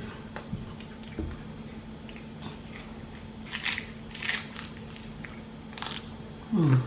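Close-up eating sounds: biting and chewing a taco in a crunchy Nacho Cheese Dorito shell, with a few sharp crunches in the second half. A short falling hum of the voice comes near the end.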